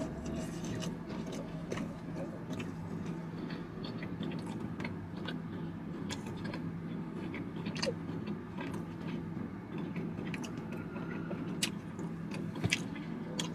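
A man chewing a mouthful of fried chicken wing with sticky sauce, with many small wet clicks and smacks of the mouth, over a steady low hum.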